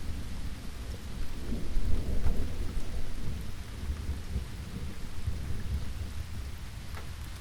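Steady rain with a low roll of thunder that swells about two seconds in and slowly dies away.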